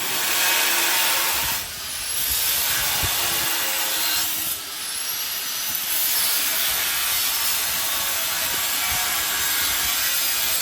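Steel being cut or ground with a power tool: a steady, loud hissing rasp that dips briefly about one and a half seconds in and again about four and a half seconds in.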